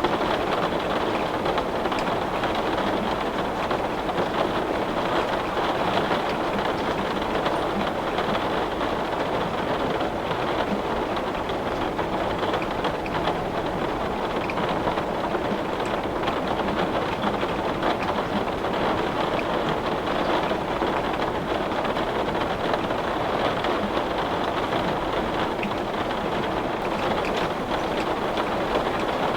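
Heavy rain beating steadily on window glass, a dense even patter of many small drops.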